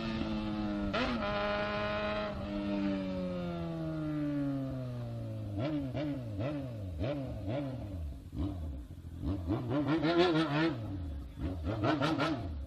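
Honda Hornet motorcycle engine, its note falling steadily as the bike slows, with a brief jump about a second in. About halfway through it breaks into a run of about ten quick throttle blips, each rev rising and dropping in well under a second.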